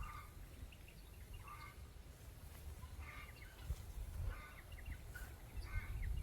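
Faint bird calls, short clusters of chirps recurring every second or so, over a low, gusting rumble of wind on the microphone.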